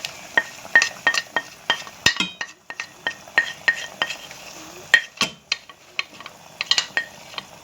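A cooking spoon knocking and scraping against a pot while stirring the sauce: irregular sharp clinks, two or three a second, some with a brief metallic ring.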